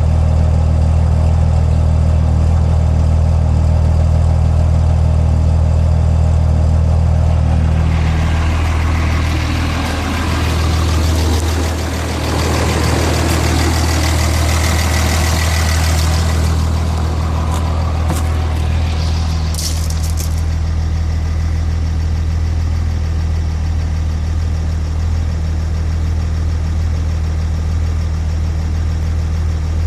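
6.7-litre diesel truck engine idling with a steady low hum, which the owner takes for a rough idle. For about twelve seconds in the middle a louder rushing hiss joins it, with a few short clicks near its end.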